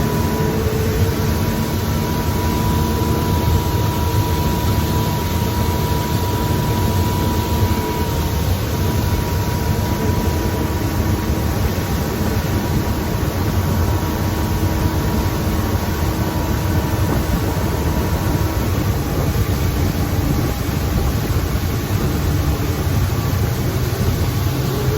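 Mercury 200 XL V6 outboard running steadily as the boat moves along, over a steady rush of wind and water noise.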